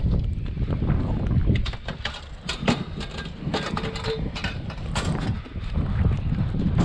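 Wind buffeting an unshielded camera microphone, a heavy low rumble, with scattered sharp clicks and knocks on top.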